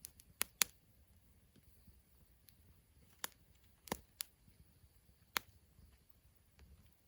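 Wood fire crackling: a handful of sharp, irregular pops, the two loudest within the first second and more around the middle, over a faint low rumble.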